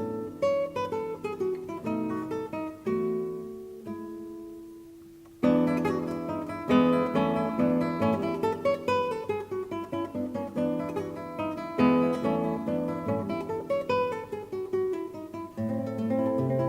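Background music: acoustic guitar played with plucked notes and strums. About four seconds in, one note is left ringing and dies away, and the playing comes back fuller and louder about a second later.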